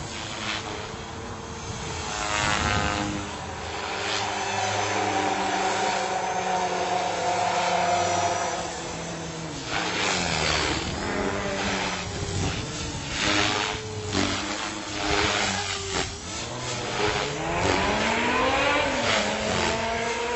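Electric flybarless RC helicopter in flight: its motor and rotor whine keep rising and falling in pitch as it manoeuvres, with several quick rising sweeps near the end.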